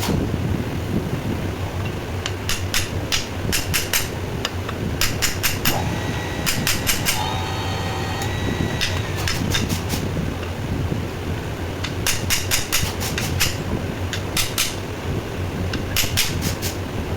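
Bursts of quick, sharp taps, several strikes in a row, repeated about half a dozen times over a steady low hum. A thin whistling tone sounds briefly midway.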